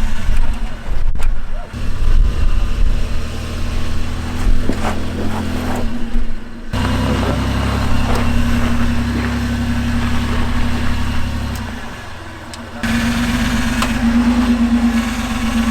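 Engine of an off-road vehicle running steadily at low revs on a rock trail, its sound changing abruptly about seven and thirteen seconds in.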